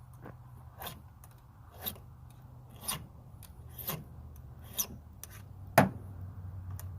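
Flat file rasping across the rakers (depth gauges) of a chainsaw chain through a raker gauge, taking them down: six short strokes about one a second, the last one the loudest.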